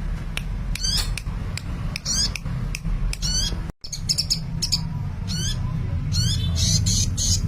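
A sunbird (Indonesian 'kolibri') singing in quick, high, thin chirps, roughly one a second, with a brief break a little past halfway, over a steady low hum.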